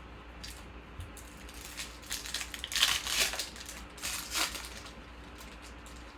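Trading cards and crinkly plastic or foil packaging being handled: a run of rustling crinkles from about a second and a half in, loudest around the middle, dying away near the end.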